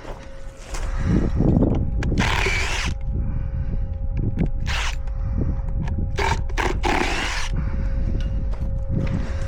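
A power tool, likely a drill or driver backing out the screws that hold wooden concrete form boards, runs in several short spells. Wind rumbles on the microphone throughout.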